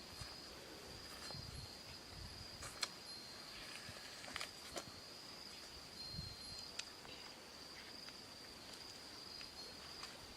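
Insects droning steadily in one unchanging high-pitched tone. A few sharp clicks, the loudest about three seconds in, and a few soft low thuds.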